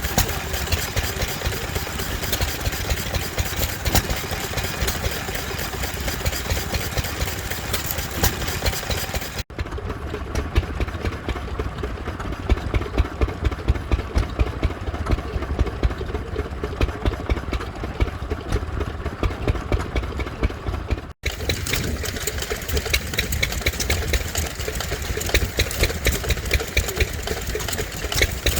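Vintage stationary engines running with a steady, regular beat. The sound switches abruptly to a different engine twice, about a third and two-thirds of the way through.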